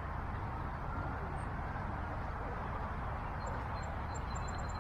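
Steady outdoor background rumble and hiss, with a small bird chirping a quick run of short high notes in the last second or so.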